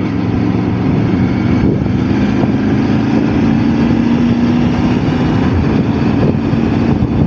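Motorcycle engine running at a steady cruise, a constant drone under wind and road noise.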